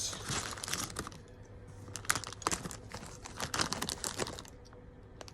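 Small plastic Lego pieces being handled and pressed together: an irregular run of quick, sharp clicks and clatters, some louder than others.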